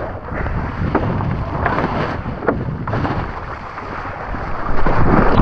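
Gusty wind buffeting the microphone over rushing, splashing water, getting louder near the end.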